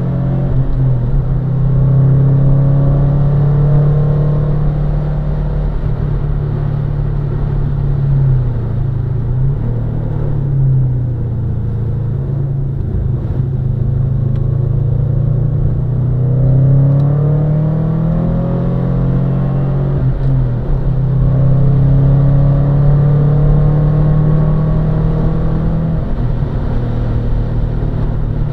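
Subaru Impreza's flat-four engine driven hard on a race circuit, its note climbing and dropping in pitch several times as it accelerates, changes gear and lifts off.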